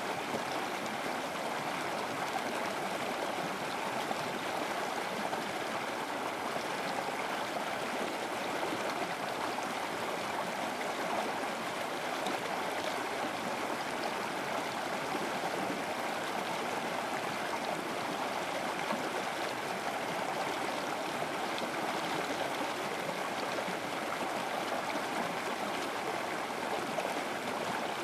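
River water flowing steadily over stones, a continuous rushing and gurgling with no breaks.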